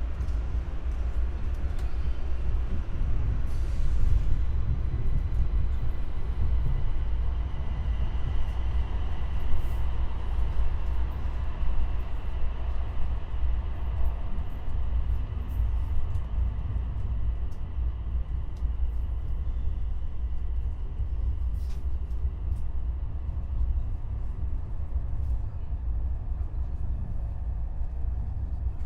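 Passenger train running on rails, heard from inside the carriage: a steady low rumble with a faint high whine through the middle and a few scattered clicks.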